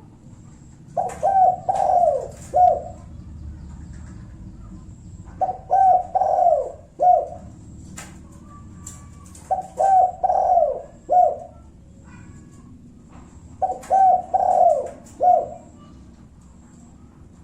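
Spotted dove cooing its 'kuk satu' song, used as a lure call to provoke rival males into answering. The song comes four times, about four seconds apart, each phrase a few short coos around a longer drawn-out note and ending in one clipped 'kuk'.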